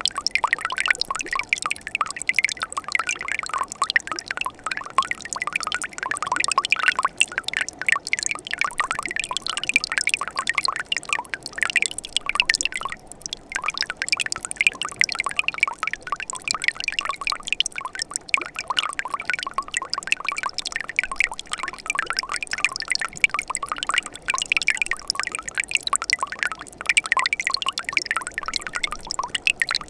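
Winter mountain stream running over rocks, a steady dense trickling and gurgling of water that thins briefly about halfway through.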